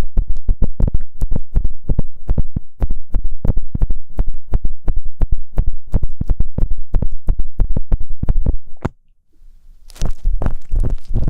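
Ear pick scraping in fast, even strokes against a microphone's ear, several strokes a second, cut off about nine seconds in. After a brief pause a brighter, rougher scratching begins near the end.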